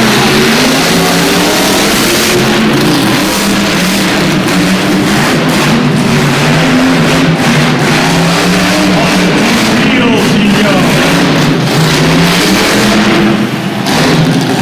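Dirt bike engines revving, their pitch rising and falling, with rock music underneath.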